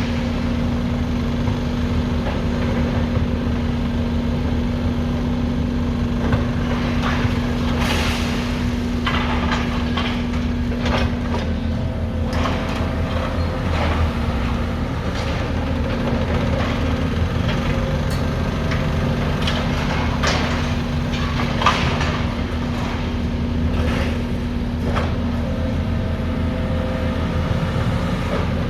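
Heavy diesel demolition machinery running steadily, with frequent short knocks and clatters of debris being worked.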